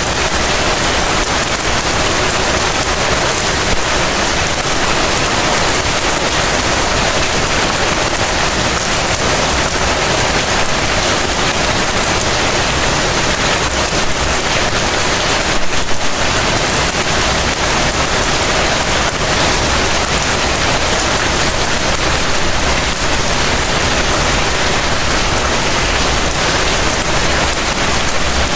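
Heavy rain falling steadily: a dense, even hiss of rain on surfaces, with a brief swell about halfway through.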